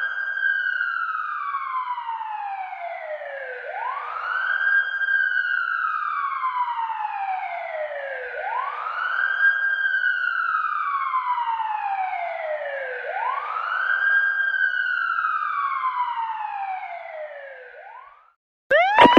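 Police siren in wail mode, each cycle sweeping up quickly and then falling slowly over about four and a half seconds, about four times. It cuts off shortly before the end.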